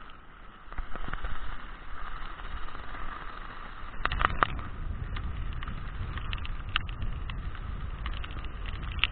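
Strong wind buffeting the microphone in heavy rain: a steady low rumble with a noisy hiss, broken by scattered sharp taps, loudest in a cluster about four seconds in.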